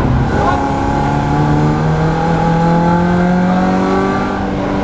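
BMW Compact Cup race car's engine heard from inside the cabin, pulling under acceleration: its note breaks briefly at a gear change just after the start, then climbs steadily for about four seconds before changing gear again near the end.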